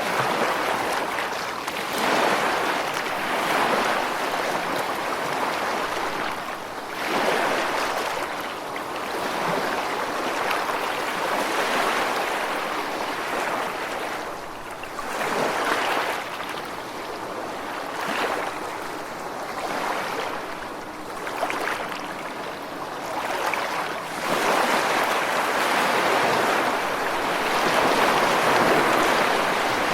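Ocean surf: waves breaking and washing in as a continuous hiss that swells and eases every few seconds, with a longer, louder surge near the end.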